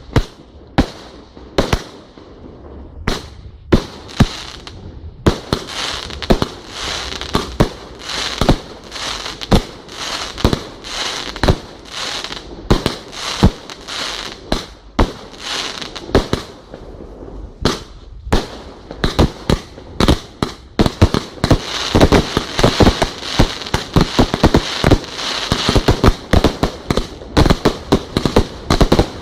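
A fireworks display of firework cakes and aerial shells going off: sharp bangs about a second apart at first, then from about five seconds in a dense run of rapid, overlapping bangs with crackle between them. It thins briefly about two-thirds of the way through, then builds again toward the end.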